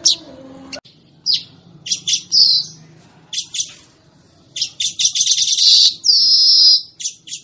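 Manyar (weaver bird) song: a run of short sharp chips and chattering notes that thickens into a dense rapid chatter past the middle, then a long buzzy wheeze near the end.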